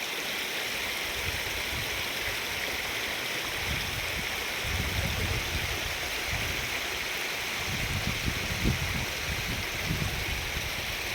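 Running water of a stream rushing steadily, with irregular low rumbles from about four seconds in.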